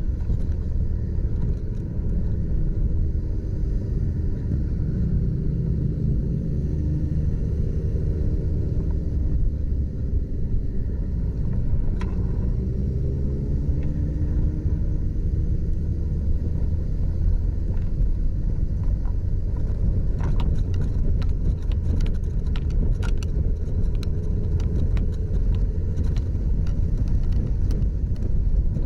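Motorcycle engine running on the move, its pitch rising and falling several times in the first half, with scattered clicks and knocks later on.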